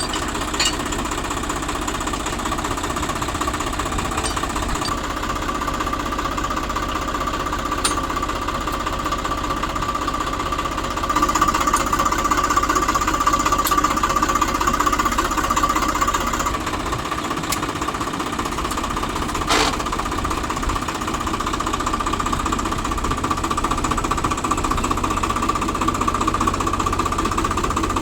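Heavy diesel engine running with a rapid knocking clatter, a little louder from about eleven seconds in, with a couple of sharp clanks.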